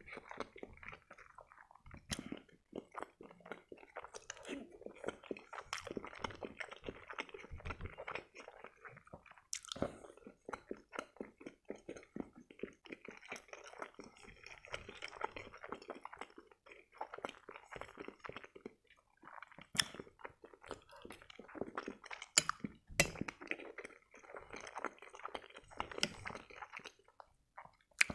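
Close-miked wet chewing and mouth sounds of eating soft boiled pelmeni dumplings in butter. A metal fork clicks sharply against the plate now and then, loudest a few times in the later part.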